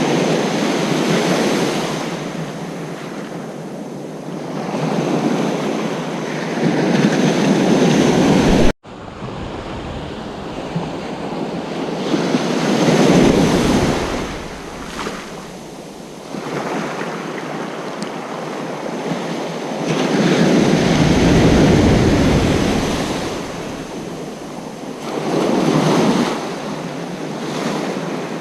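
Ocean surf on a beach: waves swell, break and wash in, one every several seconds. The sound cuts out for an instant about nine seconds in.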